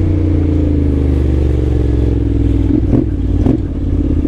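Honda X-ADV 750's parallel-twin engine running through its dual-outlet exhaust, its note falling slowly as the bike rolls off the throttle. About three seconds in the note breaks up with two short rises.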